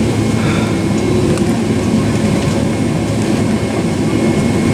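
Cabin noise inside a Boeing 767-400 rolling on the ground: a steady, loud jet engine and wheel rumble with faint, irregular clicks.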